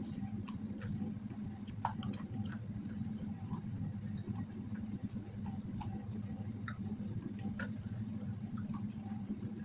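Someone eating: small irregular clicks and crunches of chewing, over a steady low hum.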